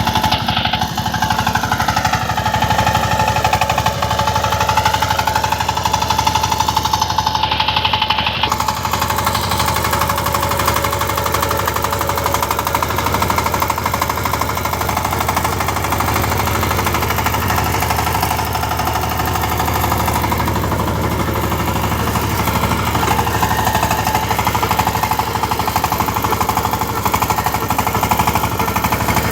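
Power tiller engine running steadily, with a rapid, even beat of firing strokes. A wavering higher tone rises and falls over it during the first eight seconds or so.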